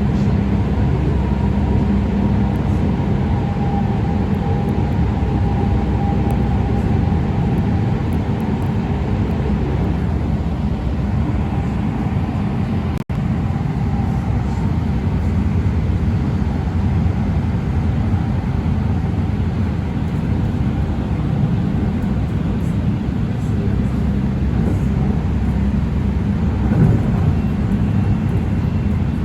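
LA Metro A Line light rail train running, heard from inside the car: a steady low rumble of wheels on track with a faint motor whine. A brief dropout cuts through it about midway.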